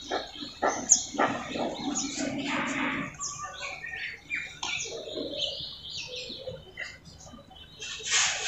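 Small birds chirping on and off: short, high, scattered calls.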